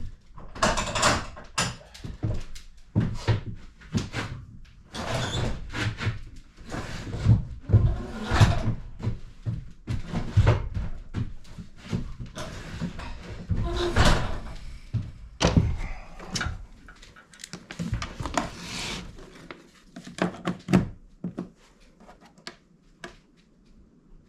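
Irregular knocks, thumps and clunks of hard objects being handled and set down, for about twenty seconds, then dying away to faint knocks near the end.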